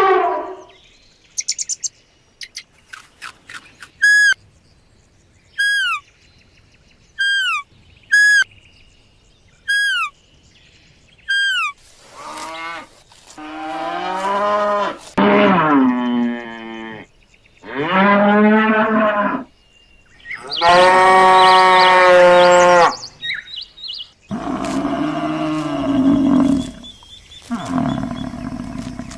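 A run of animal calls: about six short, high calls, each sweeping downward, then several long, loud pitched calls, the loudest one about two-thirds of the way through.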